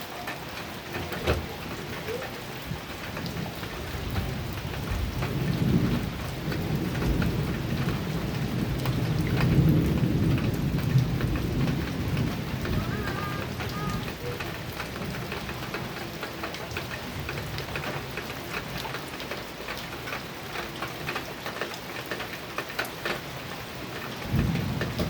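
Heavy rain drumming on a metal roof, its drops striking as many sharp ticks over a steady hiss. A long roll of thunder builds a few seconds in, peaks near the middle and rumbles away, and another roll begins near the end.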